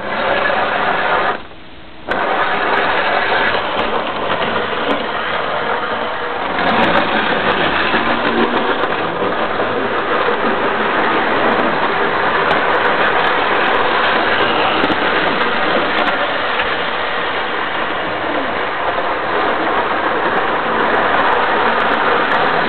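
00 gauge model locomotive running on the track: a steady whirr of motor and wheels that cuts out for about half a second near the start, then carries on.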